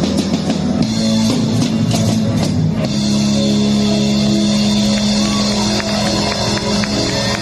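Rock music with guitar and a drum kit, loud and continuous.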